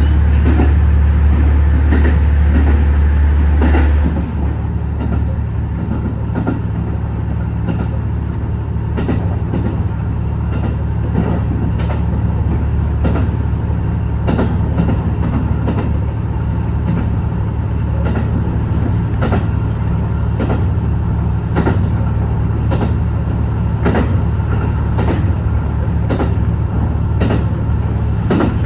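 JR HB-E210 hybrid diesel railcar running along the line: a steady low drone from the drive, which drops noticeably in level about four seconds in, with irregular clicks of the wheels over rail joints.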